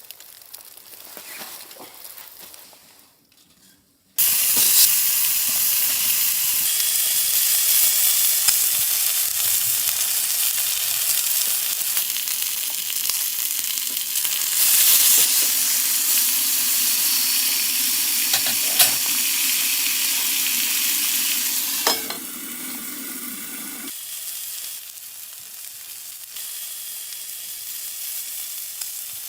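Food sizzling in a hot pan, starting suddenly about four seconds in and continuing steadily, with a few small pops. It turns quieter a little before the end.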